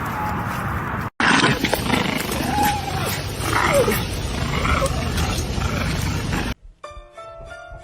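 An animal growling and letting out a few short yowling calls over a loud, rough background, with a sudden cut about a second in. Music with clear notes takes over near the end.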